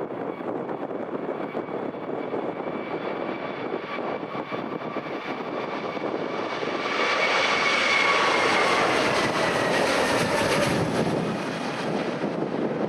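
An airliner passing close by: its engine noise swells to a peak about two-thirds of the way through, with a whine that falls slightly in pitch as it goes past, then begins to fade.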